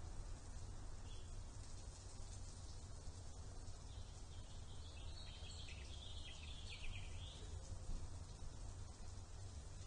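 Outdoor ambience with a steady low rumble, and a bird twittering in a short burst of high chirps about four seconds in, lasting around three seconds.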